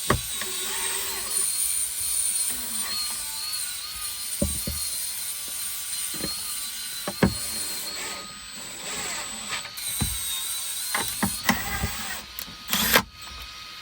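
Clicks and knocks of hand tools and parts being handled, spaced irregularly over a steady background with a faint wavering whine. There is a cluster of clicks near the end and a loud short rush of noise just before the end.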